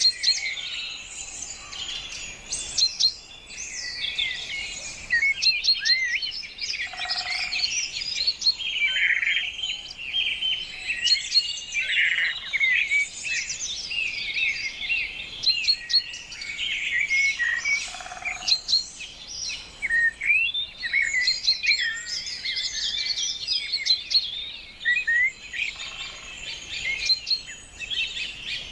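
Many birds chirping and calling at once: a dense, unbroken chorus of short, high chirps and quick whistled glides, with a lower call heard twice.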